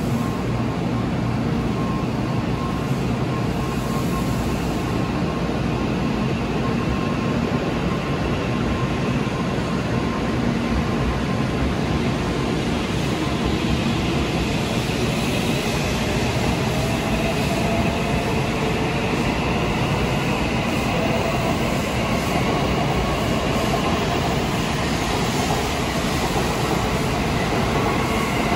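N700A Shinkansen trainset pulling away from a station platform and gathering speed. The electric motors give a whine that climbs in pitch over the steady rumble of the wheels and running gear.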